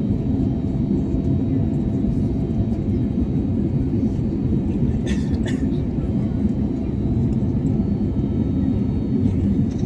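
Steady low rumble of an Airbus A321neo's cabin with the engines running, with a brief rattle of clicks about halfway through.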